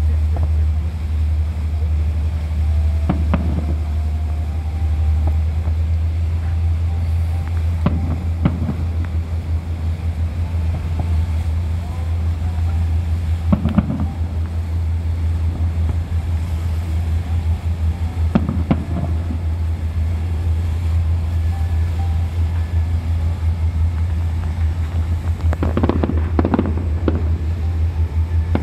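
Steady low rumble of a river cruise boat's engine, with a few sharp distant fireworks bangs every few seconds and a quick cluster of them near the end.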